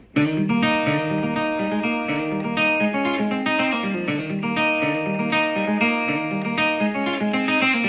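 Guitar intro to a song: picked notes in a steady, repeating pattern with no singing, starting suddenly at the outset.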